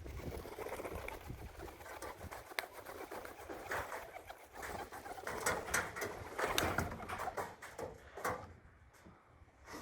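Young racing pigeons landing and moving about at the loft: scattered wing flaps and quick knocks of birds touching down on the landing board.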